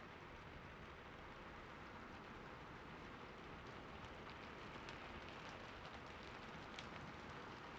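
Steady, faint rainfall: an even hiss of rain with scattered drop ticks, a little more noticeable in the second half.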